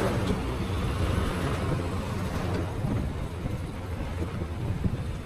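Motorcycle engine running steadily on the move, with a low even hum under road and wind noise.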